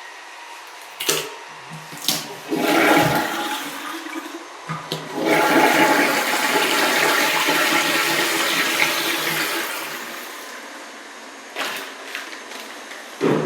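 Toilet flushing: a rush of water lasting about five seconds that then tapers off. It follows a shorter burst of water and a few sharp clicks.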